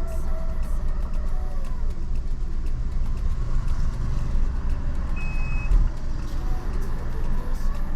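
Car engine idling, heard from inside the cabin as a steady low rumble, with one short high beep a little past five seconds in.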